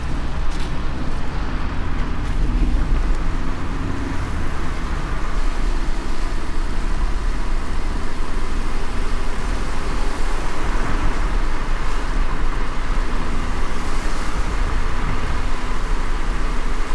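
Car driving in light rain: a steady low road rumble with even tyre and rain noise over it.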